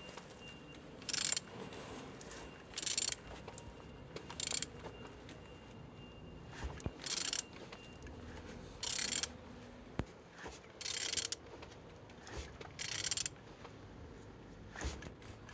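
BMW M57D25 2.5-litre straight-six diesel engine being turned over by hand with a wrench: short bursts of mechanical ratcheting noise about every two seconds, one for each stroke of the wrench. The engine turns freely and is not seized.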